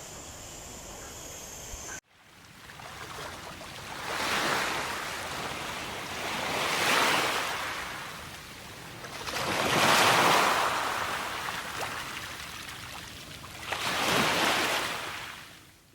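Water waves washing in, four swells that rise and fade about every three seconds. Before them, a short stretch of steady background ambience with a thin high tone that cuts off abruptly.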